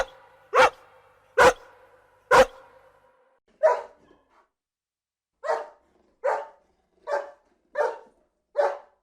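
A dog barking, about ten short barks. The first few come quickly, sharp and echoing, then after a pause near the middle a steadier run of barks follows, roughly one every 0.8 seconds.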